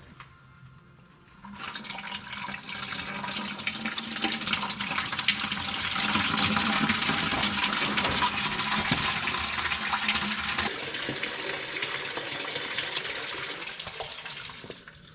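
Engine oil running out of the drain valve of a John Deere 9420 tractor and splashing into a catch container. The flow starts about a second and a half in, grows heavier, then eases off and stops near the end.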